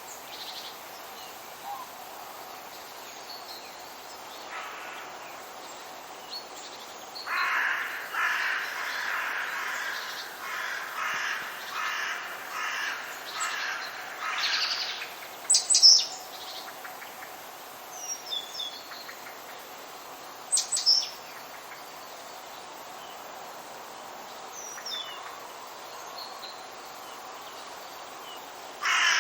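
Forest birds: one bird gives a run of harsh, rapidly repeated calls lasting several seconds, starting about a quarter of the way in. A few short, sharp, high chirps from another bird follow, over a steady faint background hiss.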